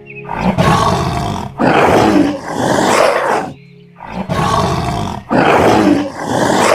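A big cat roaring: two rounds of loud, rasping calls, each a short call followed by a longer one, the second round repeating the first.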